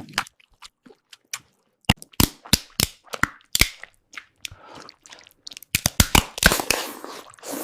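Crab and lobster shells cracking as they are eaten: a run of sharp, irregular cracks that come thick and fast near the end.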